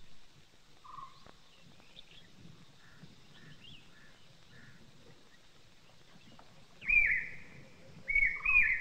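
Quiet outdoor ambience with birds calling: a few faint short chirps, then two louder high calls near the end.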